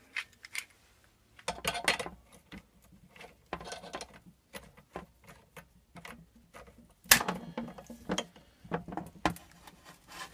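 Metal hand tools clinking and clanking in scattered clusters, with one sharper metallic knock about seven seconds in, as locking pliers and a puller are worked on a seized engine pulley.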